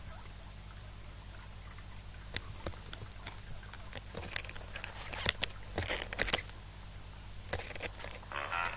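Scattered light clicks, taps and scratches, irregular and more frequent in the second half, over a steady low electrical hum.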